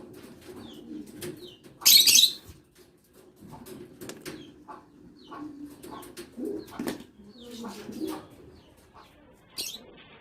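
Aviary birds calling, low calls running throughout with short high chirps among them. A loud rush of flapping wings comes about two seconds in, and a brief one near the end.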